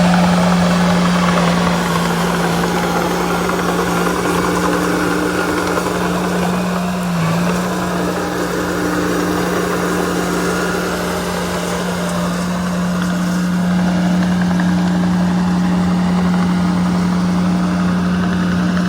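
Diesel engine of heavy earthmoving machinery running at a steady speed, with a constant low drone and a mechanical clatter over it; the pitch wavers briefly about seven seconds in.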